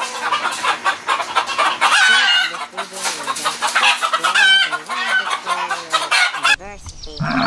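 A flock of domestic chickens clucking, with many short calls overlapping. The calling cuts off about six and a half seconds in.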